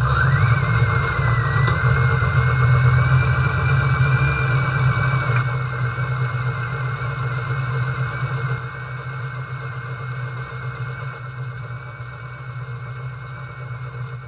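Twin-turbo Mustang drag car's engine running steadily at low revs with a thin, high steady whine above it, growing gradually quieter.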